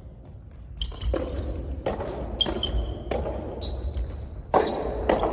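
Soft tennis rally: the soft rubber ball is struck by rackets and bounces on the court in a string of sharp pops, with shoes squeaking on the floor, echoing in a hall.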